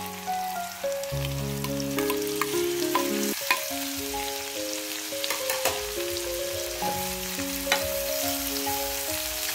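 Chicken, shallots and garlic sizzling in a frying pan as diced tomatoes are tipped in and stirred with a spoon, with a few sharp clicks of the spoon against the pan. Soft background music with a simple melody plays throughout.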